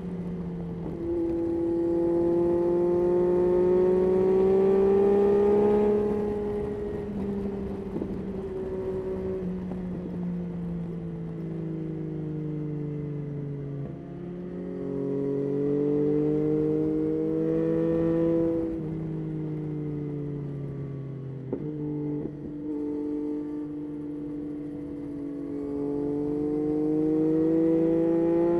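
Yamaha Tracer 9's 890 cc inline-three engine pulling under way, its pitch climbing and dropping several times as the throttle is opened and closed. It is loudest about five seconds in, with a couple of short knocks a little past the middle.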